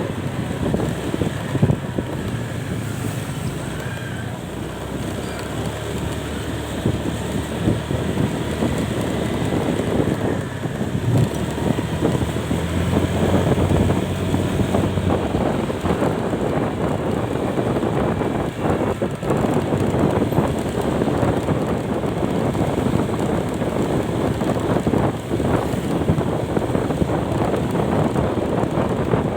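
Wind buffeting the microphone over the road and engine noise of a moving vehicle, steady throughout with a low hum that swells for a few seconds mid-way.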